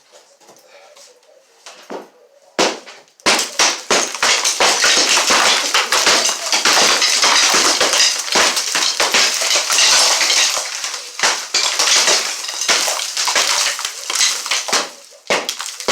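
Demolition: after a single hard impact, a long run of rapid, continuous smashing and crashing as building material is broken apart, with a brief let-up near the end.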